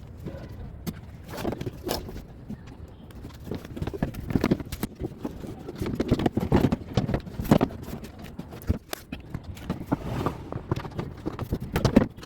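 Irregular clicks and knocks, like hand tools working on metal, coming in uneven clusters.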